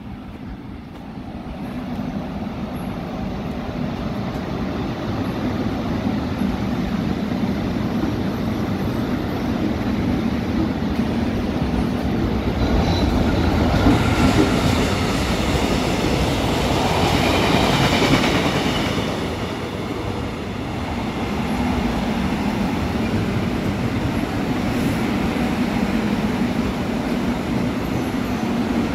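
Korail electric locomotive hauling red-striped passenger coaches passing close along the platform, a rumble of wheels on rail that builds to its loudest midway, with a high whine or wheel squeal at the peak. A commuter electric train at the platform keeps up a steady low hum near the end.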